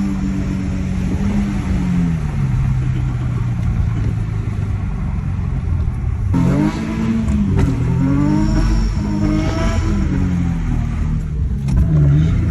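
Infiniti G37S's 3.7-litre VQ37VHR V6 engine and exhaust while driving. The revs fall away over the first couple of seconds and hold steady. About six seconds in the engine is pushed, and its pitch climbs and drops several times, as under hard acceleration through the gears.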